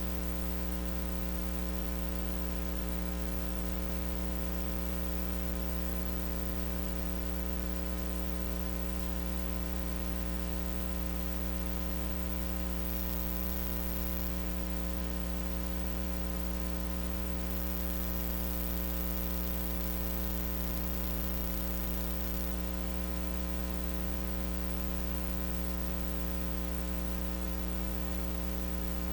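Steady electrical mains hum with its buzzy overtones and faint hiss, unchanging throughout. It is the hum picked up by the recording input while the microphone is switched off, so no room sound comes through.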